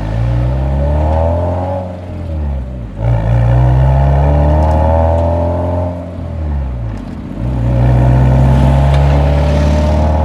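Nissan 180SX's exhaust on the move: the engine pulls up through the revs, drops back at a gear change about three seconds in, pulls again, eases off around six to seven seconds in, then climbs once more.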